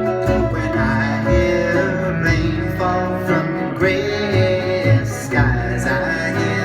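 Live band music: an instrumental passage of a song, with guitar and sustained held notes and chords.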